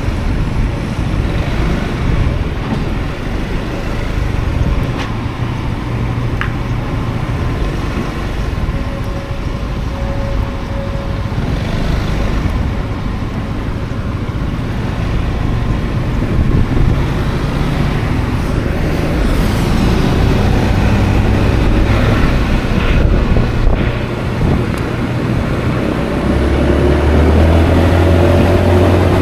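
Wind buffeting the action-camera microphone while riding a Honda Forza 350 scooter in traffic, with the scooter's engine and other vehicles under it. Near the end an engine note rises as the ride speeds up and the rumble grows louder.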